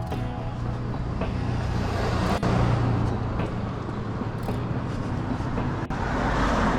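Street traffic: car engine and tyre noise going by, swelling about two seconds in and again near the end.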